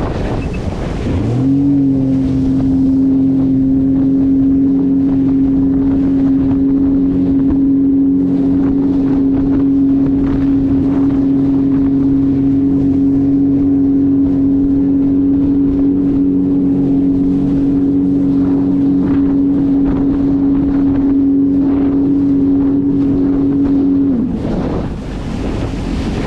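Jet ski engine running at steady high throttle. Its pitch climbs to speed in the first second or two and drops a couple of seconds before the end as the throttle eases. Wind rushes on the microphone throughout.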